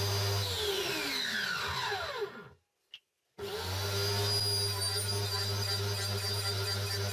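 Electric power tool motor running steadily with a whine. About half a second in it is switched off and winds down in pitch over about two seconds to silence, a single click follows, and then it starts again and quickly spins back up to full speed.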